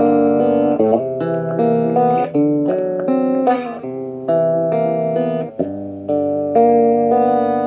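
Guitar chords played through a homemade op-amp, LDR-based phaser pedal set to its vibe mode, giving a swirling, phase-shifted sound. The chords change roughly every half second to a second, and the last one rings on.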